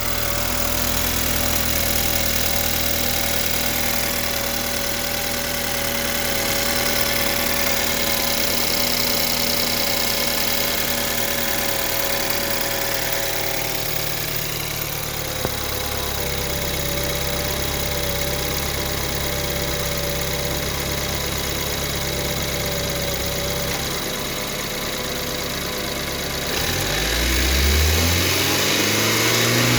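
BMW N20 2.0-litre turbo four-cylinder idling cold, with a steady high whine over the engine note that the owner puts down to the timing chain (chain and guide noise). The idle note shifts about halfway through, and near the end the engine is revved once, its pitch rising then falling.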